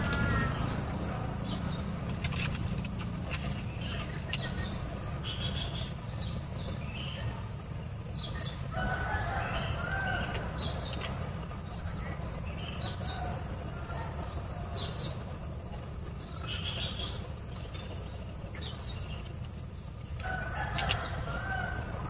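Bird calls outdoors: short high chirps repeat every second or so, and lower cluck-like calls come in three short spells, over a steady low rumble.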